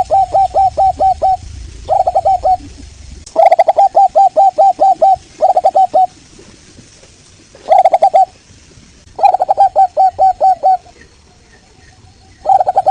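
Zebra dove (local perkutut) singing: phrases of rapid, staccato cooing notes, about five a second, repeated about seven times with short pauses between.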